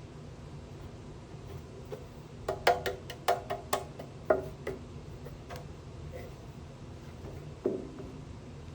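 A quick run of sharp clicks and taps starting about two and a half seconds in, then a single knock near the end, over a low steady hum.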